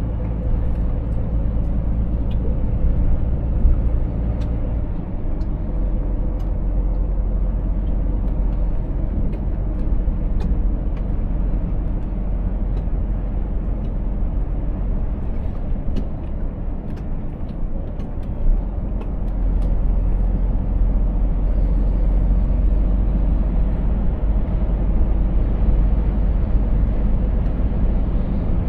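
Scania S 500 truck under way, heard from the cab: a steady diesel engine drone with deep road rumble, and a few faint clicks.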